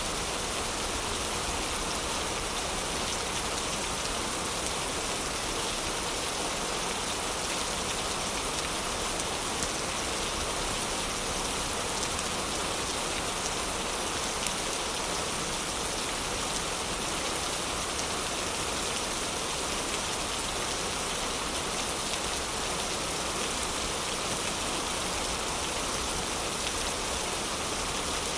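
Heavy rain falling steadily in an even hiss, with a couple of sharp crackles from a fireplace.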